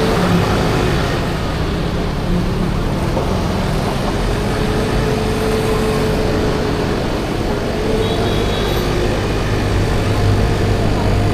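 Steady riding noise from a 50cc scooter moving through heavy city traffic: the small engine running at a constant cruise amid the drone of surrounding motorbikes and road noise, with a faint steady tone coming in about four seconds in.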